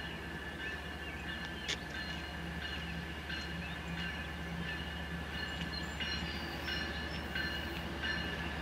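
A train rolling by, with a steady high-pitched squeal and scattered short clicks over a low rumble.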